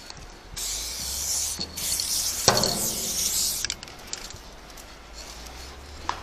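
Aerosol spray-paint can spraying in two hissing bursts, the first about a second long and the second about two seconds, with a sharp click during the second burst.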